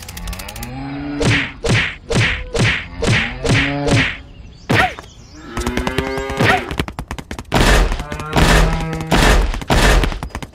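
Dubbed cartoon sound effects: a quick run of about eight short pitched calls, then a longer call, then several heavy thuds near the end.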